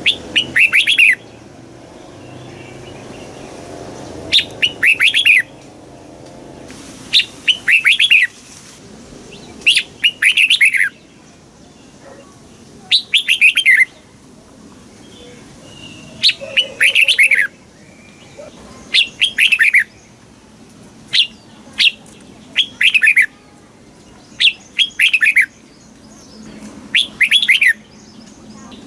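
Red-whiskered bulbul singing: short phrases of a few quick falling notes, repeated every two to three seconds.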